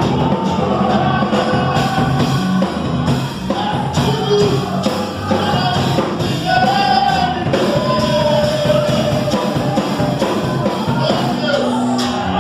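Gospel hymn performed with a singer's voice over band accompaniment: the sung melody bends and holds over a steady bass.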